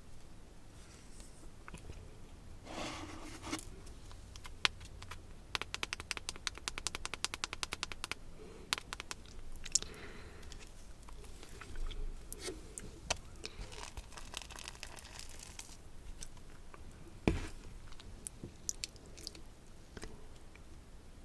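Close-miked eating sounds: crunching and chewing of crisp food. Scattered crunches, a rapid run of crisp clicks a few seconds in, and one sharp crack later on, the loudest sound.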